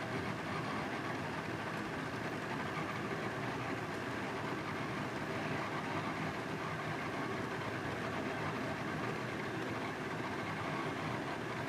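CNC drawing machine running steadily as it draws, a continuous mechanical hum from its motors.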